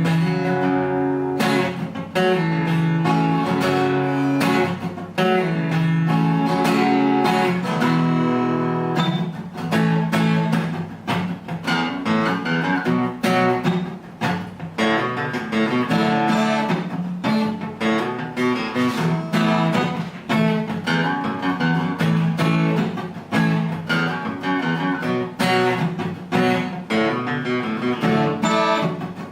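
Ruison RD-45N steel-string acoustic guitar, spruce top with rosewood back and sides, strummed through a run of changing chords.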